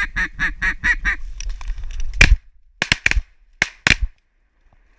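A rapid, even run of duck quacks, about six a second, stops after a second and a half. A shotgun volley follows: one loud shot a little over two seconds in, then about five more shots in quick succession from the hunters' guns.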